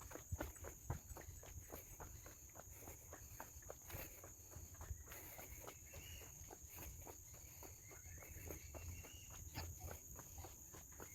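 Footsteps on a forest trail at a steady walking pace, about two a second, over a steady high-pitched drone of insects.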